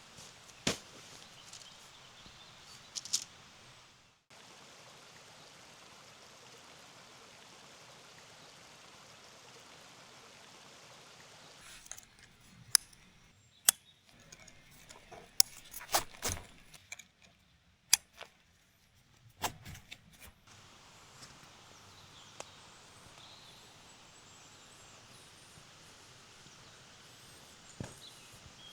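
Quiet outdoor ambience with a steady soft hiss. From about halfway through, camping gear is handled in a run of sharp clicks and knocks for several seconds, then the ambience returns.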